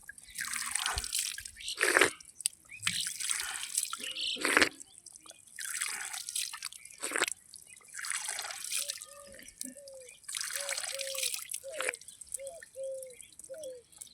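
Water splashing and dripping in repeated short bursts, every second or two, as a peacock is given water to drink. From just past the middle, a bird calls with a string of short, slightly falling notes, about two a second.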